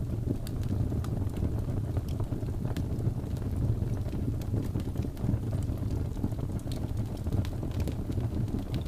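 Wood fire burning in a fireplace: a steady low rumble of flames with scattered crackles and pops throughout.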